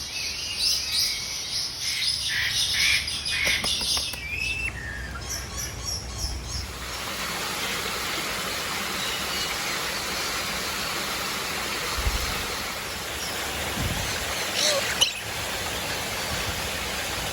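Aviary birds chirping and tweeting, a dense run of short high calls for the first few seconds, then a steady hiss with only a few scattered chirps.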